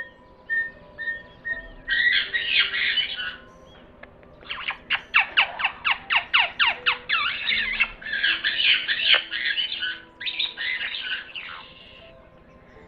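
Budgerigar chirping a few times, then chattering and warbling in fast, scratchy phrases, with a quick run of short falling squeaks in the middle.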